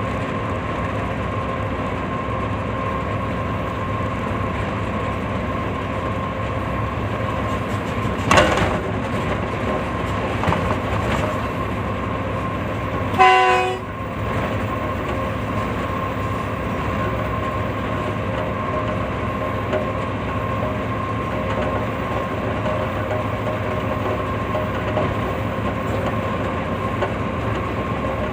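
Steady rumble and rattle of a moving train, with a sharp knock about eight seconds in and a short horn blast about thirteen seconds in.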